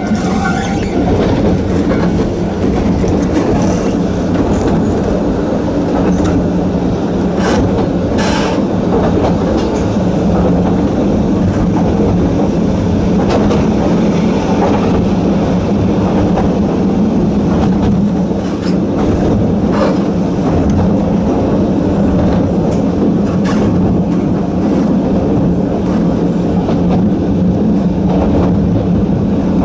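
Sangi Railway Hokusei Line narrow-gauge electric train running, its nose-suspended traction motors giving a steady hum, with a few sharp clicks from the wheels.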